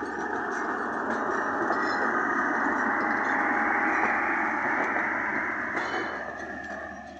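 Pakistan Railways passenger coaches rolling past on the rails, a steady rumble of wheels on track that swells to its loudest about four seconds in and then fades away.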